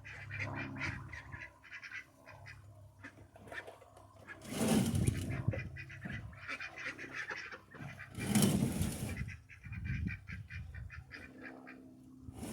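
Ducks quacking and chattering in a run of short, repeated calls, with two louder rushing noises about a third and two-thirds of the way in.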